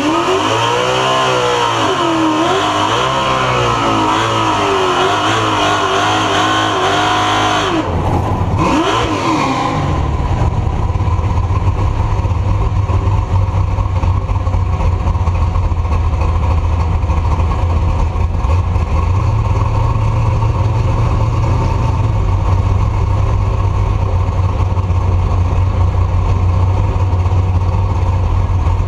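Engine revved up and down several times for about eight seconds, then settling into a steady low rumble.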